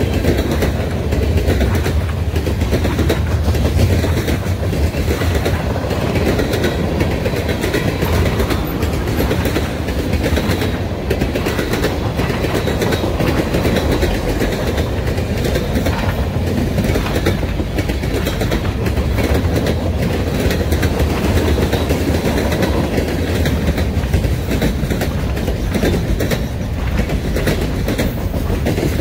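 Freight train cars rolling past close by, loud and steady, with the steel wheels clicking rhythmically over the rail joints.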